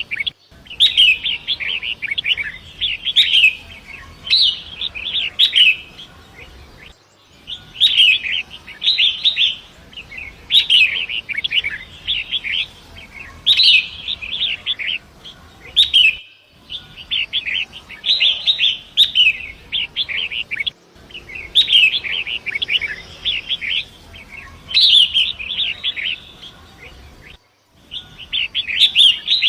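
Long-tailed shrike (pentet) singing in repeated phrases of quick, chattering notes, each phrase about a second long with short pauses between, over a faint steady rush of running river water. The sound drops out completely for an instant a few times, as at splices in a looped recording.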